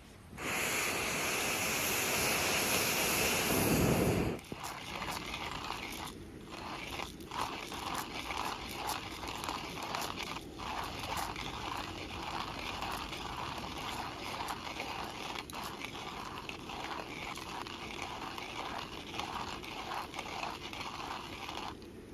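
A loud rushing noise for about four seconds that cuts off suddenly, then a wood campfire crackling and popping with many small irregular snaps, stopping abruptly near the end.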